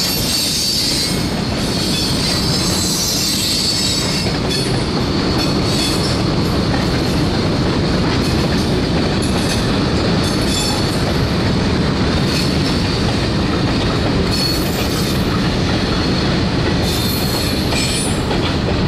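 Freight train hopper and gondola cars rolling past with a steady, loud rumble of steel wheels on rail. High wheel squeals come and go every few seconds.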